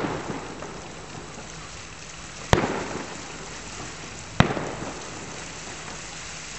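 Aerial fireworks shells bursting: crackling at the start fades out, then two sharp booms about two and a half and four and a half seconds in, each trailing off in an echo.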